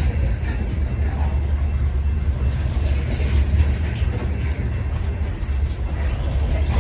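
A train rolling past with a steady, heavy low rumble.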